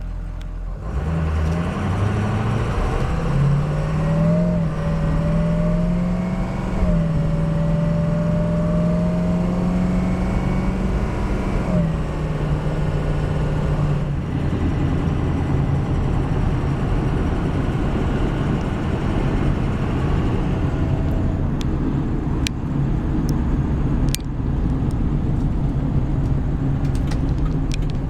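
Ford 6.0-liter Powerstroke turbo-diesel V8 pulling the truck away. The engine note climbs and drops back at each automatic upshift through the first dozen seconds, with a thin whine rising alongside it, then settles into a steady cruise. A few sharp ticks sound near the end.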